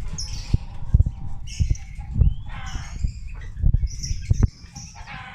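Caged songbirds chirping and calling in short bursts, with one gliding call about two seconds in, over a run of dull low thumps and knocks.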